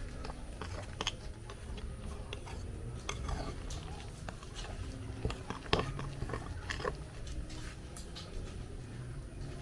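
Irregular clicks, knocks and soft squishing of food being mixed in a bowl with a utensil, over a steady low rumble, with one sharper knock a little past the middle.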